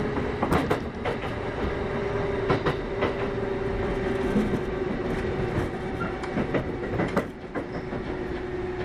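Kintetsu 8810 series electric train running, heard from inside the car: a steady hum that drifts slightly lower, with the wheels clicking over rail joints every second or so.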